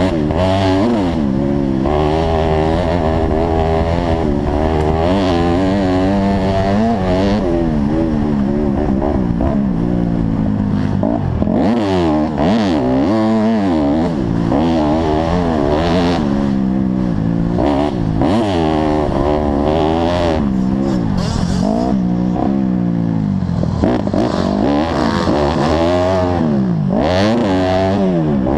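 Several motocross bike engines revving hard as the bikes race. Their pitches rise and fall every second or two with throttle and gear changes, overlapping one another.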